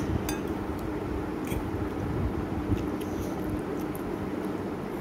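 People chewing mouthfuls of instant noodles, with a few light clicks, over a steady low hum.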